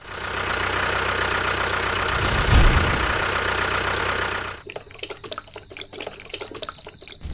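A small motor running steadily, then stopping about four and a half seconds in, followed by a run of light, irregular clicks.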